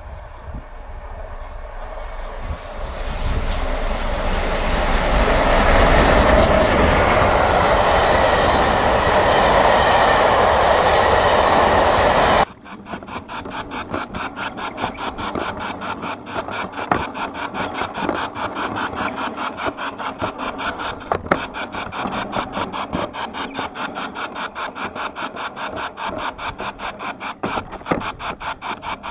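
A full-size train approaching and passing close, its noise building to a loud steady rush before cutting off suddenly about twelve seconds in. Then a G scale garden railway train running, heard from inside the open wagon it pushes: a fast, even, rhythmic rasping clatter.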